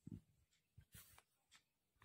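Near silence, with a faint low knock at the start, a brief faint rustle about a second in and a small tick after it.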